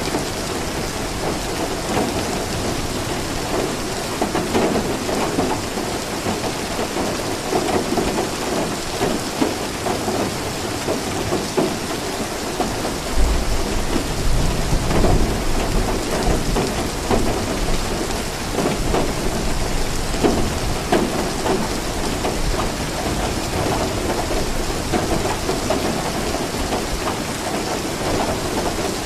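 Steady rain falling, with the patter of drops throughout. About halfway through, a low roll of thunder comes in and rumbles away over several seconds.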